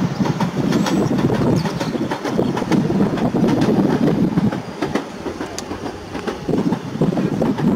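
PESA Dart (ED161) electric multiple unit running along the line, its wheels clicking repeatedly over the rail joints over a steady rumble. The sound grows quieter from about halfway through as the train draws away.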